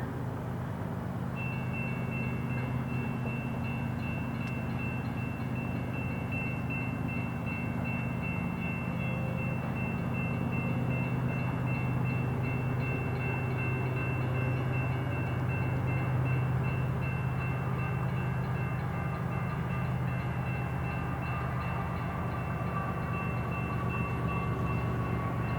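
Diesel freight locomotives running with a steady low rumble as the train approaches, slowly growing louder, with a thin steady high-pitched whine from about a second and a half in.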